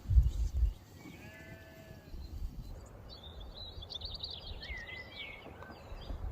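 A low thumping rumble at the start, then a single bleat from a farm animal about a second in, followed by a couple of seconds of rapid high songbird chirps and trills.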